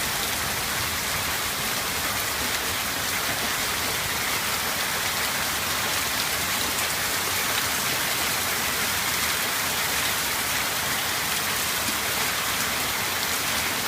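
A heavy storm of hail and rain pelting down steadily, a dense even hiss with no let-up.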